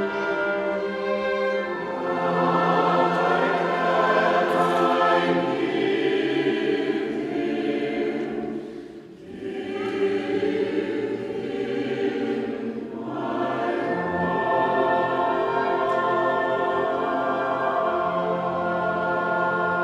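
Choir singing in sustained chords, with a short break in the sound about halfway through before the singing resumes.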